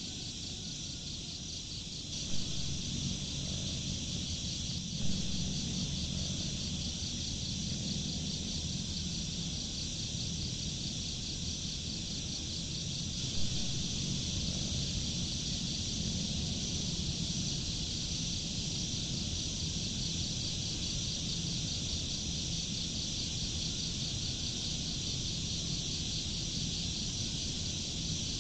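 Dense, steady chorus of night insects: a high, finely pulsing chirring that never lets up. A low rumble runs underneath, with a few brief soft knocks in the first half.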